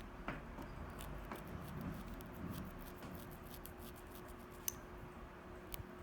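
Slender carving knife stabbing up and down through katagami stencil paper in tsuki-bori carving: a run of faint, irregular crisp ticks as the blade pierces the paper, with one sharper click about two-thirds of the way through.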